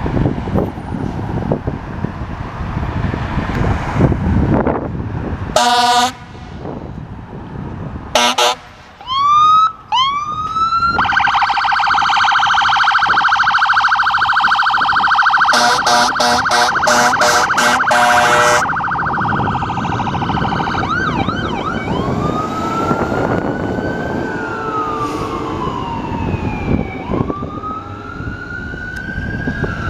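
Fire apparatus sirens and air horns while pulling out on a call. Short air-horn blasts come first, then the siren whoops up into a fast, steady yelp with a quick run of horn blasts over it. Near the end it changes to a slow wail that rises and falls.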